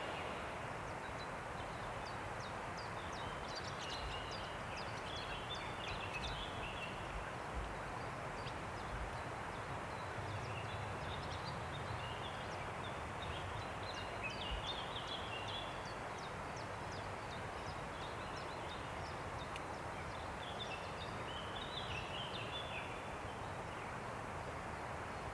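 Steady wind rushing through forest trees. Above it a small songbird sings quick high twittering phrases in three spells, starting about 3, 10 and 20 seconds in.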